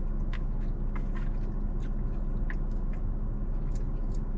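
Steady low hum inside a parked car's cabin, with a dozen or so faint short clicks and ticks scattered through it.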